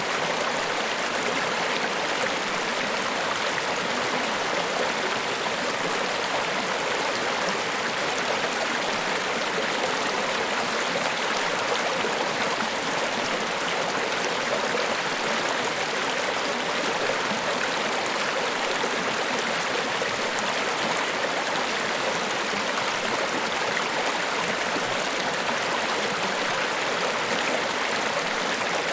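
Niagara Falls: a steady, unbroken rush of falling water, even in level, mostly hiss with little deep rumble.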